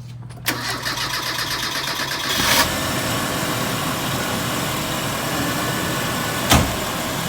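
Petrol car engine being cranked by the starter with a rapid rhythmic churn, catching about two and a half seconds in and then running steadily. A single sharp knock sounds near the end.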